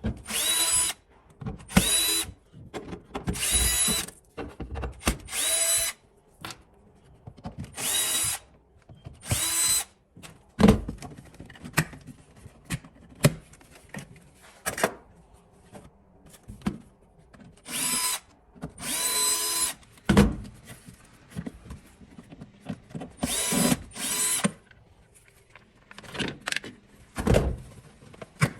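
Electric drill-driver running in short bursts, about ten of them, each up to two seconds long, backing out screws, with short knocks and clatter between the bursts.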